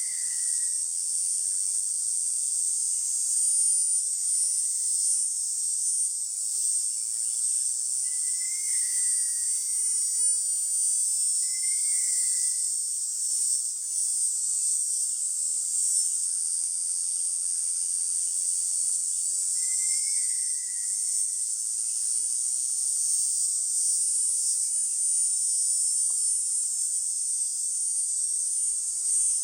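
A steady, high-pitched insect chorus drones without a break. A few short, faint chirps sound over it, about five times.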